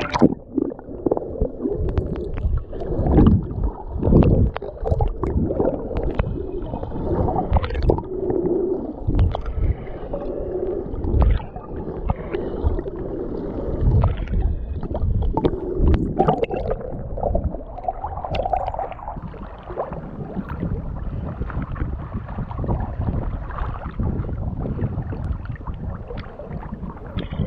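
Muffled water sloshing and gurgling with irregular low thumps, as the sea moves around a boat.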